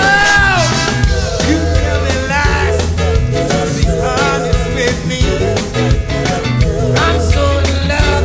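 Band music with drums, a steady bass line and a melody whose opening note bends up and back down.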